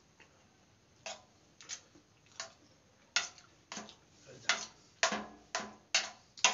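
Close-up eating sounds: a series of about ten sharp, wet smacking clicks from chewing a mouthful of biryani. They come faster and louder toward the end.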